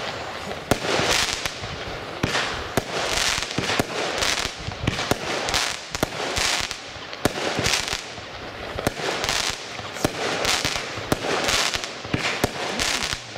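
Weco Casablanca 24-shot firework battery (cake) firing: a steady series of shots, roughly one to two a second, each followed by a short noisy burst from the effect bursting in the sky.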